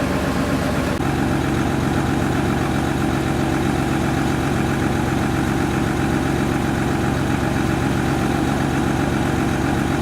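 A fishing boat's engine running steadily under way, its note shifting slightly about a second in.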